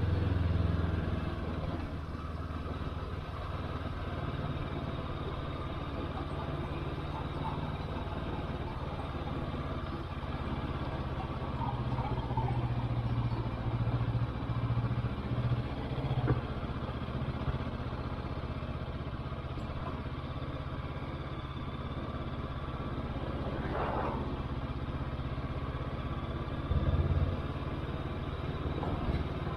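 Motorcycle engine running steadily while under way, with wind and road noise. The engine gets louder for a few seconds near the middle and again near the end.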